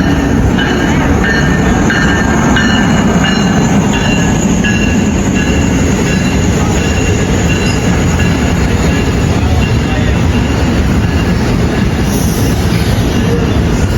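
New Jersey Transit locomotive-hauled train passing close by: a loud, steady rush of wheels on rail and train noise, with faint high wheel squeal in the first few seconds.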